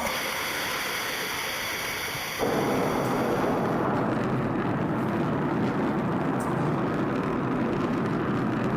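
Rocket engine firing during liftoff and hover, a steady rushing noise that jumps louder about two and a half seconds in and then holds.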